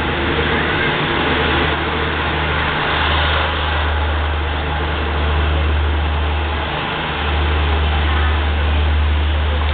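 Diesel passenger train noise: a steady low rumble with a noisy hiss over it, the rumble dropping out briefly a few times.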